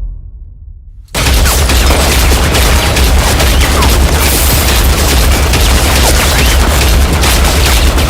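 A low rumble dies away, then about a second in, sudden nonstop rapid machine-gun fire starts, very loud, with a heavy low boom under the shots.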